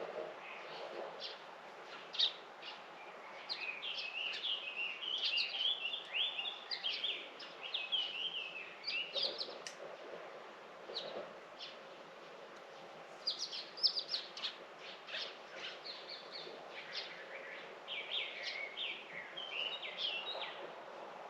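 Small birds chirping and twittering in quick runs of high notes, in two long busy spells, over a faint steady background hiss.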